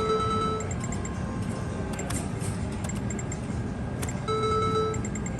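Video poker machine sounds over casino floor noise: two short electronic beeps about four seconds apart, with small clicks and quick runs of high ticks as cards are dealt and drawn.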